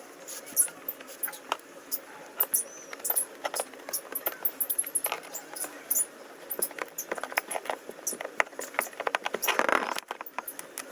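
Irregular light clicks and taps of tools and car parts being handled, with a short rustling scrape about nine and a half seconds in.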